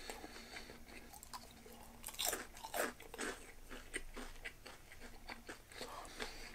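A person chewing a mouthful of bento food close to the microphone: soft, scattered mouth clicks, with a few louder chewing noises about two to three seconds in.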